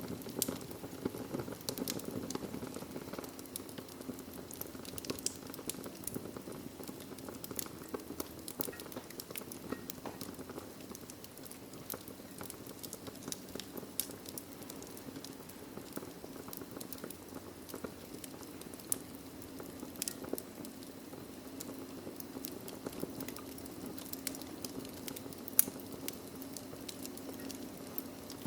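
Wood fire burning in a fireplace: a steady low rushing hiss with frequent sharp crackles and pops scattered throughout.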